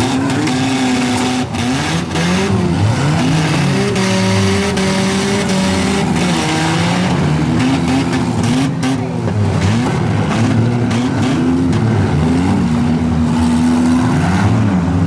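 Several four-cylinder demolition derby cars revving at once, their engine pitches rising and falling as they accelerate and back up, with a few sharp knocks from collisions.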